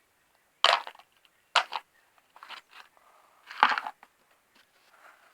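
Small plastic toy pieces being picked up, handled and set down, making a few short clatters and rustles.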